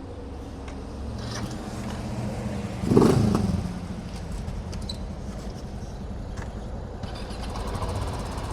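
Motor vehicle engines running on a street, with one engine surging loudly about three seconds in before settling back to a steady run.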